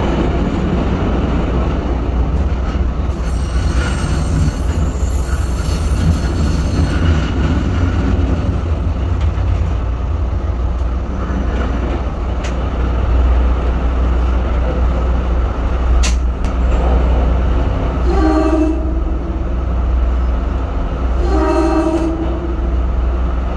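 Train running through a tunnel with a loud, steady rumble of wheels on the rails, and two short blasts of its horn near the end.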